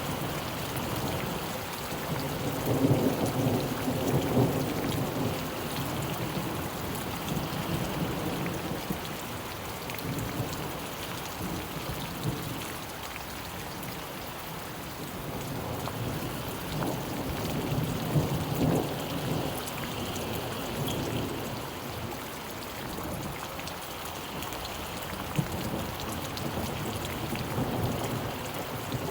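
Steady rain falling, with thunder rumbling and swelling twice: once a few seconds in and again past the middle.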